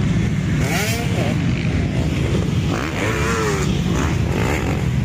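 Several motocross bikes racing, with a steady rumble of engines throughout. Engines rev up and back down about a second in and again around three seconds in.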